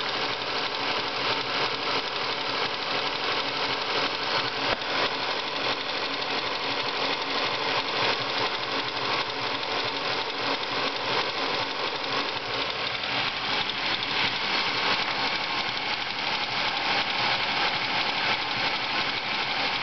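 Ford Focus engine running with a fast, steady ticking from the engine bay, which the owner suspects is a failing water pump or a worn bearing.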